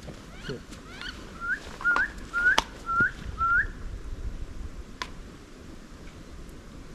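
A run of about six thin, rising wood duck whistles, each note sweeping upward at its end, with two sharp clicks among them.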